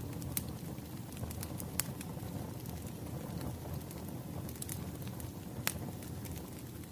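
Wood fire crackling: a steady low rumble of burning logs with scattered sharp pops, the loudest about two seconds in and another near the end.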